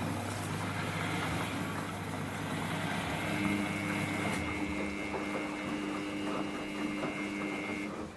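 Samsung front-load washing machine running as its rinse and spin cycle gets under way: a steady mechanical hum, with a higher whine joining about three seconds in. Both stop abruptly near the end.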